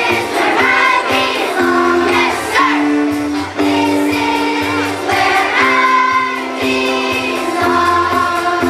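School chorus singing in unison over instrumental backing, with held notes and a steady bass line underneath.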